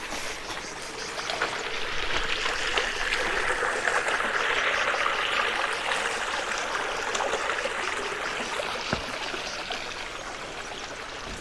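Small stream of water running and trickling, swelling louder in the middle and easing off toward the end.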